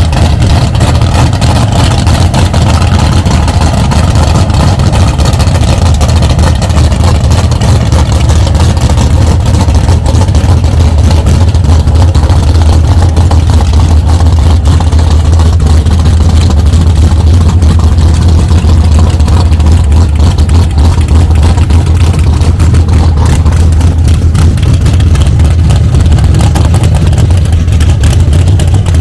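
A car engine running close by, a loud, steady low rumble that holds without a break.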